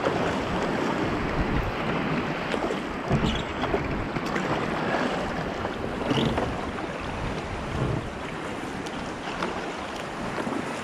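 Waves splashing and water sloshing around a sea kayak on choppy water, with a few louder splashes, and wind buffeting the microphone.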